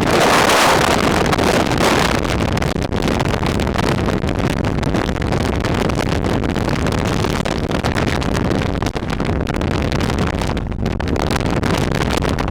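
Wind buffeting the microphone: a loud, steady rumbling noise that rises and falls with the gusts.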